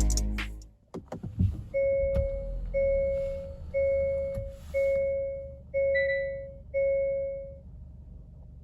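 A few sharp clicks, then a car's in-cabin warning chime sounding six times, one steady tone about every second, ahead of the engine start.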